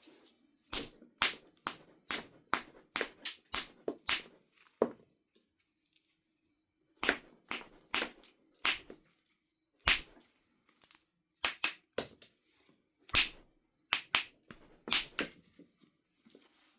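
Knife River flint being knapped: sharp, clicking strikes of a knapping tool on the stone, a run of about a dozen at roughly two to three a second, a short pause, then a second run of irregular strikes.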